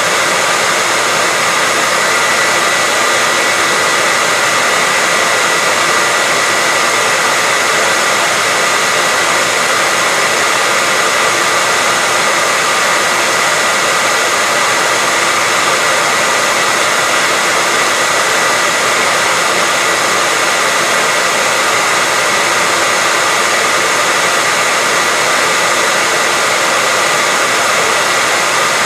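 Hair dryer running steadily, a constant rushing of air with a faint steady whine from its motor and fan.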